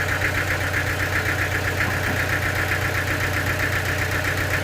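Sawmill machinery running steadily: a constant low hum under a fast-pulsing, higher whine, with no change in pace.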